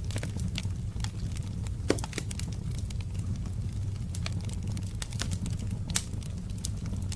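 Wood fire crackling in a fireplace: irregular sharp pops and snaps over a steady low rumble, with two louder pops, about two seconds in and near six seconds.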